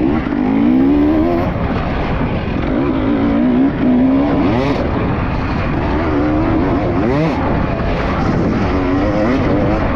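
Enduro dirt bike engine revving up and down as it is ridden, its pitch climbing and dropping every second or two over a steady rough noise.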